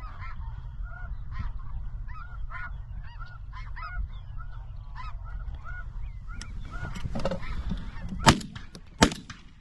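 A flock of snow geese calling, many short overlapping honks, over a low wind rumble. Near the end two loud shotgun shots about three-quarters of a second apart.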